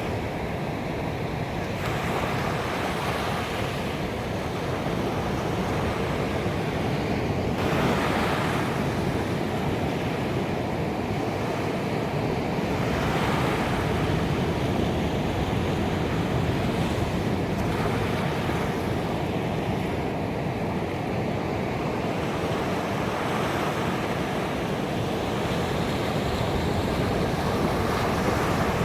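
Ocean waves breaking on a beach in a continuous wash of surf, swelling louder every few seconds as waves crash.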